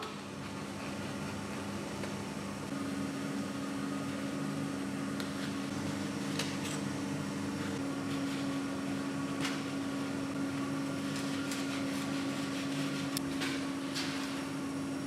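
Steady hum of a running electric machine, with two low steady tones, and a few light clicks and ticks from about six seconds on.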